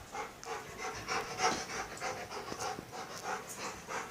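A dog panting quickly and rhythmically, about three breaths a second, out of breath after running about.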